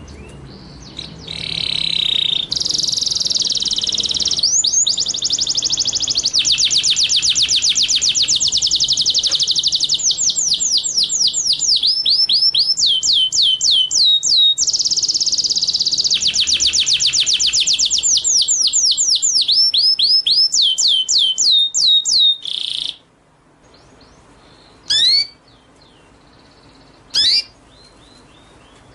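A small songbird sings long, rapid, high-pitched trills of quickly repeated sweeping notes, in several runs. The song stops suddenly, and a few short, separate high calls follow, spaced about two seconds apart.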